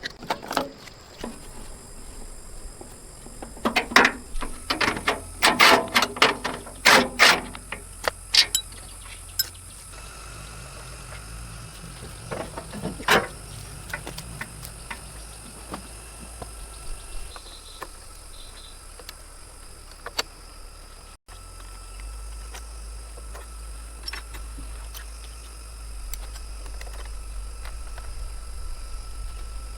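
A quick run of sharp knocks and clatter lasting a few seconds, a couple of single knocks after it, then a steady low hum.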